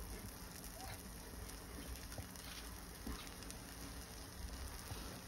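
A cheese quesadilla frying in a pan over a gas burner: a faint, steady sizzle with scattered small crackles.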